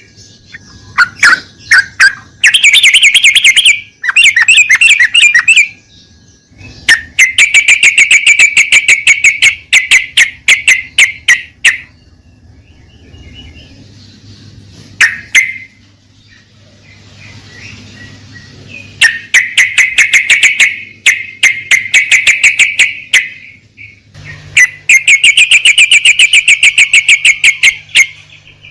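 Yellow-vented bulbul (trucukan) song: several loud runs of rapid, evenly repeated chattering notes, each lasting one to five seconds, with short pauses between them.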